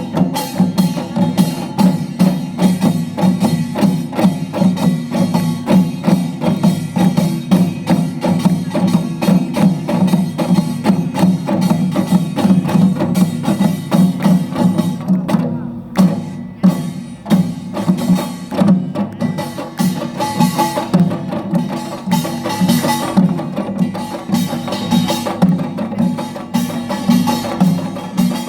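Utdari samulnori ensemble playing: kkwaenggwari small gong, janggu hourglass drum, buk barrel drum and jing gong in a fast, dense driving rhythm. The beat thins briefly a little past halfway, then comes back at full strength.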